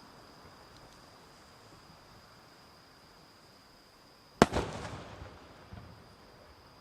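A firework shell bursting with one sharp, loud bang about four and a half seconds in, followed by a rumbling echo and a few small crackles. A steady high chirring of insects runs underneath.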